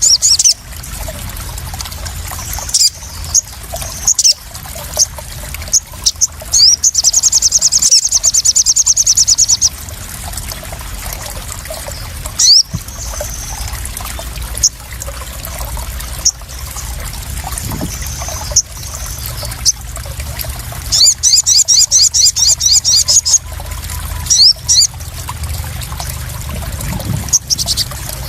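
Crimson sunbird (sogon) song: high, fast trills a few seconds long, twice in the middle, with short sharp chirps between them. Underneath runs a steady sound of trickling, splashing water.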